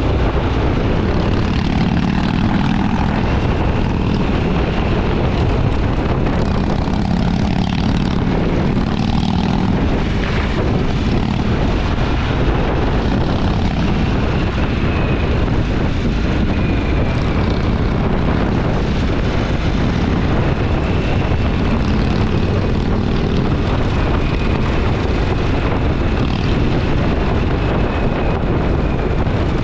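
Motorcycle engine running steadily on the move, with wind and road noise.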